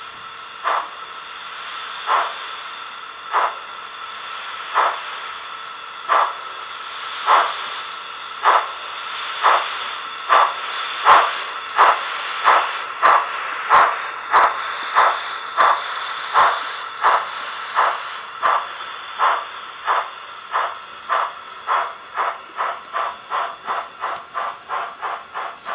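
Sound from the ESU LokSound decoder's speaker in a TOMIX HO-scale EF210 electric locomotive model: a steady hiss of running sound with regular clacks of simulated rail joints. The clacks come faster and faster as the model picks up speed, from about one every second and a half to about two or three a second.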